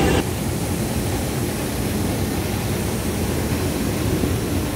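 Diesel locomotive running along the line, a steady rumble and rushing noise heard from the driver's cab. Just after the start, a louder pitched sound cuts off abruptly, leaving only the even running noise.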